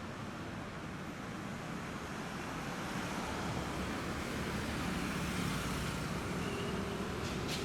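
A car engine idling steadily at low volume over street traffic noise, with a few low held tones, slowly growing a little louder.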